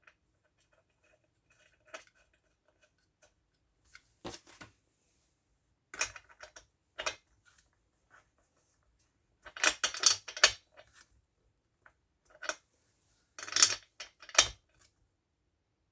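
Small metal parts and tools being handled on a workbench: scattered clicks, clinks and short scrapes in irregular clusters.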